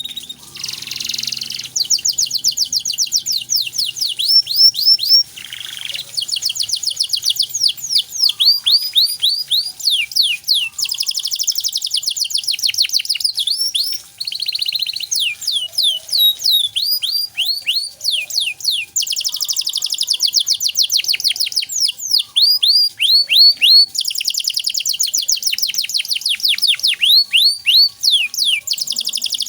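Canary singing a long, varied song of rapid trills: fast runs of repeated downward-sliding high notes, several to a dozen a second, changing from phrase to phrase with only brief pauses. It is a 'gacor' training song with elaborate phrasing, played for young birds to learn.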